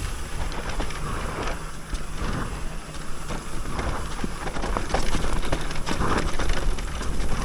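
Electric mountain bike riding down a loose dirt trail: tyres crunching and skidding over loose dirt and rock, with frequent clicks and rattles from the bike, over a steady low rumble of wind on the microphone.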